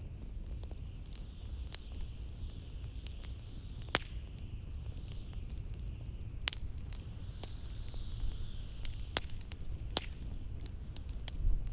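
Log fire crackling with scattered sharp pops over blizzard wind: a steady low rumble and a high whistle that wavers up and down.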